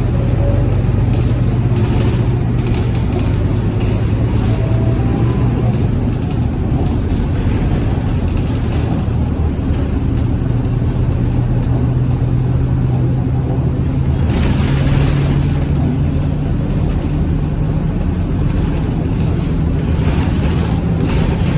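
Scania K230UB city bus's five-cylinder diesel engine running under way, its note stepping up in pitch about two-thirds through and again near the end as the bus pulls harder. A short hiss comes with the first rise.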